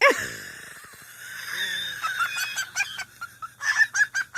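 Pet bird making a run of short, clipped clucking sounds while picking food from a person's mouth, after a loud sound right at the start.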